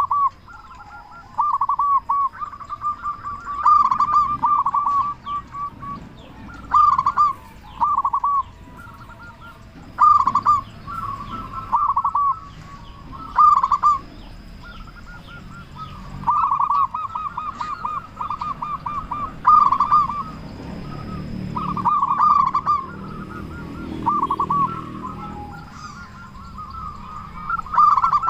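Local zebra dove (perkutut) singing vigorously: a string of short cooing phrases, each a quick run of rolling notes, repeating every second or two. Faint chirps of other small birds sound higher above it.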